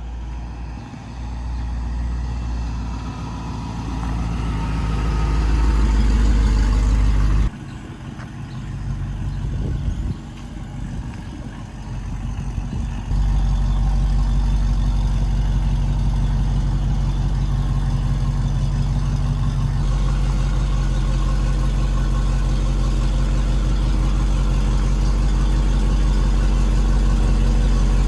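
A vehicle's engine and road rumble while driving, a steady low drone. It drops suddenly about seven seconds in and comes back at full level around thirteen seconds.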